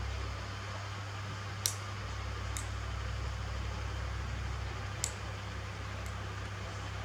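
Nail clippers snipping a monkey's nails: a few sharp, short clicks, the first about one and a half seconds in and another near five seconds, over a steady low hum.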